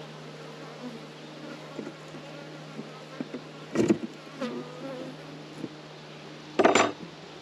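Honeybees buzzing around an open hive, a steady hum with bees flying past close by. Two sharp knocks cut through it, about four seconds in and near the end.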